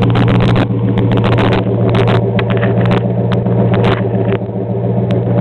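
1969 Plymouth Fury III's engine running at a steady speed, a deep even drone that holds its pitch, with frequent sharp clicks over it.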